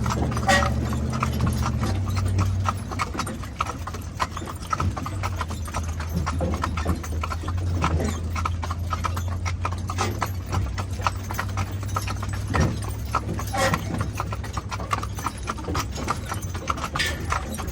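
A team of two mules, out of Haflinger mares, trotting at a good pace in harness: a quick, continuous run of hoof clip-clops over a steady low rumble.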